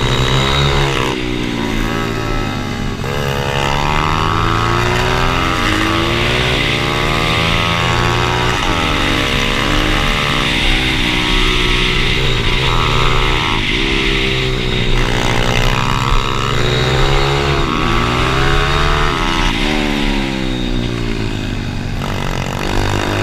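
Several pit bike engines revving as the bikes race, their notes rising and falling over and over and overlapping one another.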